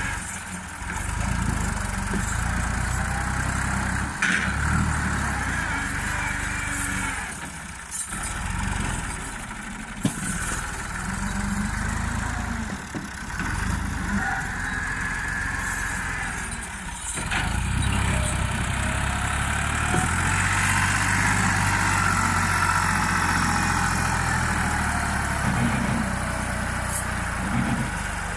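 Fiat 640 tractor's diesel engine working hard under load while pulling a brick-laden trolley that is stuck. The engine is revved up and down, and it holds a louder, higher run over roughly the last third.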